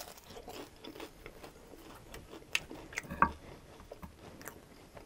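Close-up mouth sounds of chewing a fried spring roll dipped in barbecue sauce: a run of short, sharp clicks and smacks, the loudest cluster about three seconds in.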